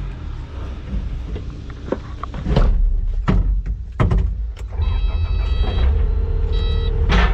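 Skid steer's diesel engine running, getting louder about two and a half seconds in as it is throttled up, with several sharp clunks and knocks from the machine. Short high electronic beeps sound near the end.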